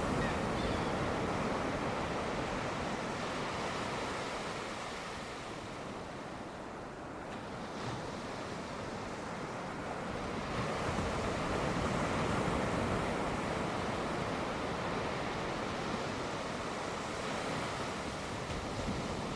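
Sea waves washing onto a shore, a continuous surf that swells and eases, quieter about a third of the way in and building again past the middle.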